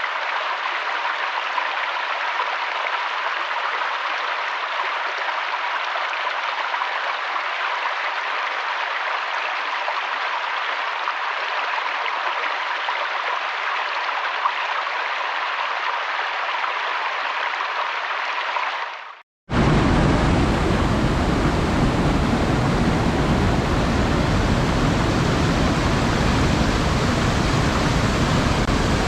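Running water rushing steadily. About 19 seconds in it cuts out for a moment, and a louder, deeper steady rush takes over.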